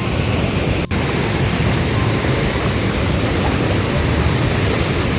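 Steady rushing roar of a waterfall and its stream, loud and even, with one momentary break a little under a second in.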